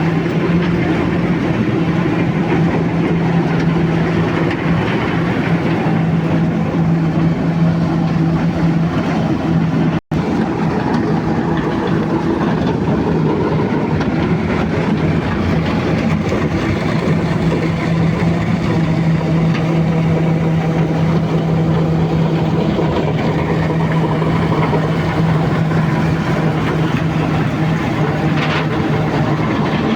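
Heavy diesel engine running steadily under work, with a steady low hum; the sound cuts out for an instant about ten seconds in.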